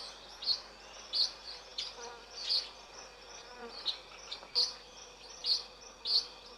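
Rainforest ambience: short, high chirps repeating every half second to a second over a faint, steady insect background.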